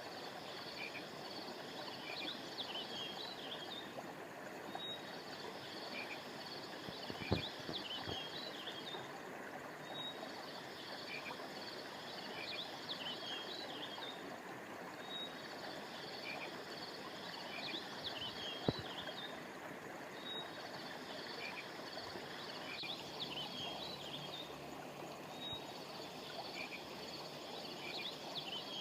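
River water flowing steadily, with birds chirping high over it in a looped pattern that repeats about every five seconds. Two sharp clicks stand out, about seven and nineteen seconds in.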